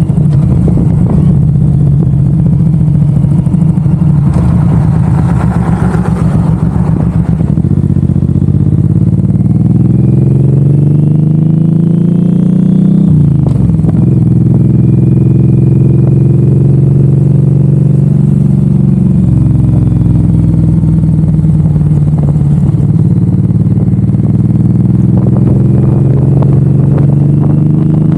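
Suzuki M109R's V-twin engine under way, the revs climbing and then dropping sharply at a gear change about 13 seconds in. It then holds steady, shifts again about 19 seconds in, and climbs again near the end.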